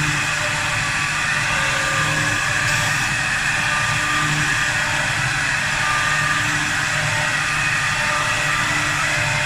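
4-axis CNC wood lathe running steadily, its spindle spinning a wooden sofa-leg blank while the cutter turns it; a continuous machine whine with several steady tones over cutting noise.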